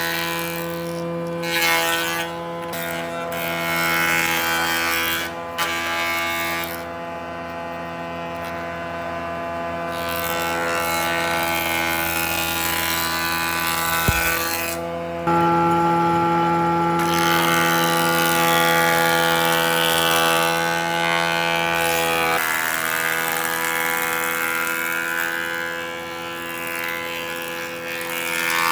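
A power tool's motor running steadily with a noisy cutting sound over it. Its pitch and loudness shift abruptly a few times.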